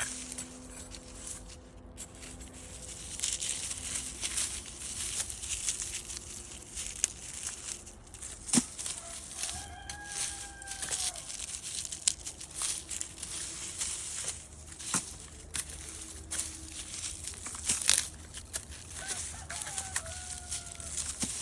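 A rooster crowing twice, once about halfway through and again near the end, over continual rustling and crackling with a few sharp snaps.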